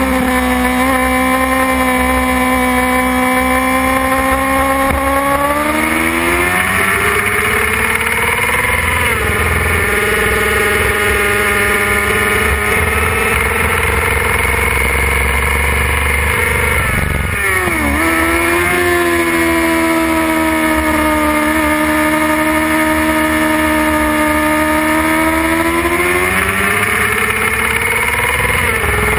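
Suzuki GSX-R 600 inline-four sportbike engine running at high revs, heard onboard with wind rush over the fairing. The engine pitch holds, climbs and drops as the rider works the throttle and gears, with a sharp drop and climb back a little past halfway.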